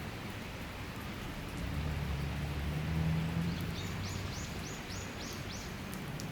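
Steady rain of a summer shower. A low rumble swells up about two seconds in and fades by four. A bird gives a run of about seven quick high chirps in the second half.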